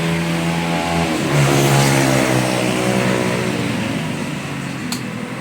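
A motor vehicle's engine running close by, loudest about a second and a half in and then sinking slowly in pitch as it goes past. A single sharp click sounds near the end.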